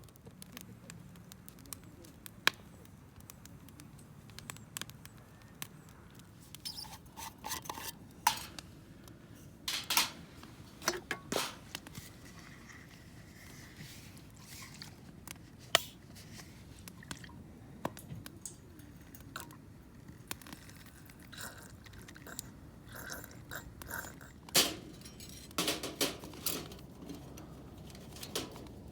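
Scattered light clicks, clinks and knocks of objects being handled, irregular and unhurried, a few of them sharper, over a steady low background hum.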